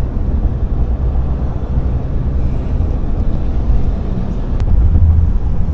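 Loud, steady low rumble of a vehicle in motion, with an uneven, buffeting loudness.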